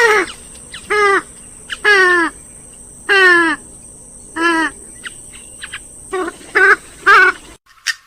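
Repeated loud calls of a rail-family waterbird of the swamphen and moorhen kind, about seven in all, each dropping in pitch, with faint short notes between. The recording cuts off abruptly near the end.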